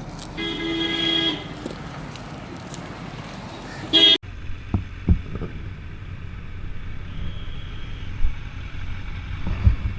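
Vehicle horn in road traffic: one steady honk lasting about a second, then a second short honk about four seconds in. After an abrupt cut, a low steady engine rumble with scattered knocks.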